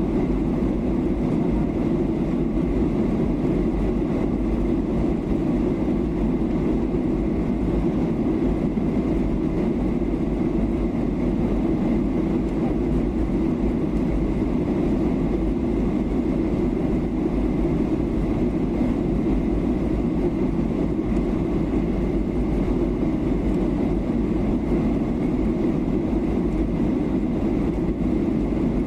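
Steady cabin noise of a Boeing 737-800 in flight: its CFM56-7B turbofan engines and the rush of air over the fuselage give an even, low rumble with a faint steady high tone above it.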